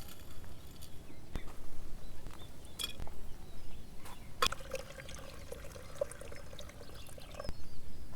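Liquid being poured into a cup or glass for about three seconds in the second half, after a few light clinks and knocks of handling.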